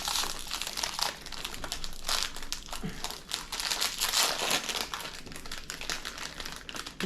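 Plastic wrapper of a packaged snack pancake crinkling and rustling as it is handled and opened, in many irregular crackles.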